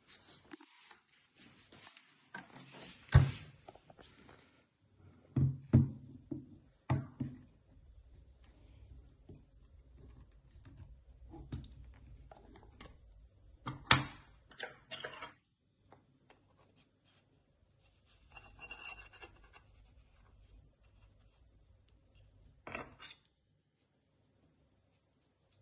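Handling noise: scattered knocks, taps and scraping of objects being moved about, the loudest knocks about 3 and 14 seconds in. The sound cuts off suddenly near the end.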